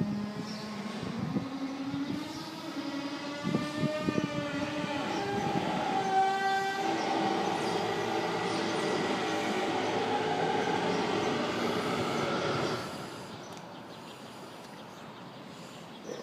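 Eerie, drawn-out, horn-like tones at several pitches at once, slowly sliding up and down. They cut off about 13 seconds in, leaving a quieter background.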